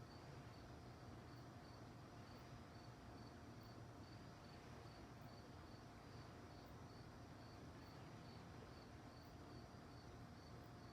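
Crickets chirping faintly at night, a steady, even rhythm of short high chirps about twice a second.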